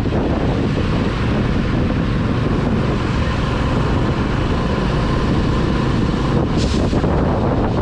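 Wind buffeting the microphone on a Corven 110 motorcycle riding in the rain, over the steady noise of the bike and the wet road. A short hiss about six and a half seconds in.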